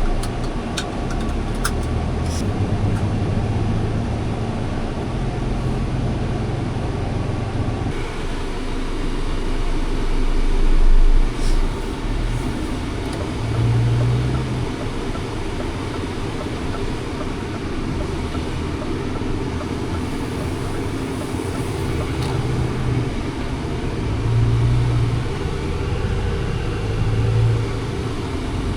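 Scania R500 truck's 13-litre six-cylinder diesel running on the road, a steady low drone with road noise whose low note shifts now and then. There are a few light clicks near the start and a brief swell about a third of the way through.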